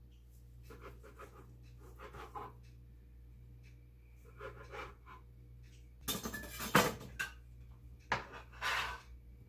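Knife cutting cooked chicken breasts in a ceramic crock pot: scattered short scraping and cutting strokes, with the loudest cluster about six to seven seconds in.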